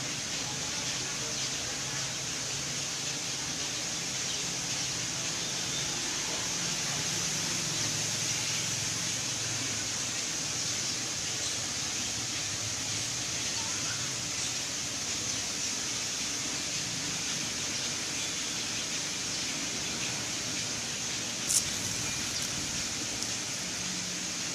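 Steady hiss of background noise with a faint low hum, and one sharp click near the end.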